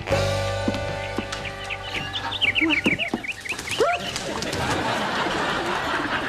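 A held music chord fades out, and then birds take over: a quick run of short chirps, then a dense chatter of many birds calling at once.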